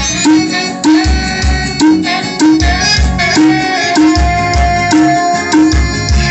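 Music with heavy bass thumps about twice a second and percussion, played loud through a compact four-way speaker cabinet during a sound test: Hard Power 550 woofer, 250 midrange, phenolic driver and titanium driver.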